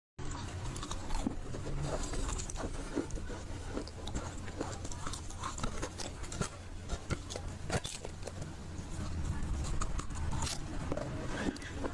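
Close-miked chewing of dry, full-roasted Nakumatt clay: a dense, continuous run of crisp crunches and crackles.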